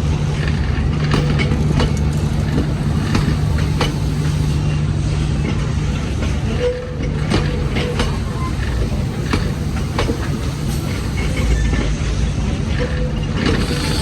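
Passenger train moving out of a station, with a steady low engine drone and irregular clicks and clacks of wheels over rail joints.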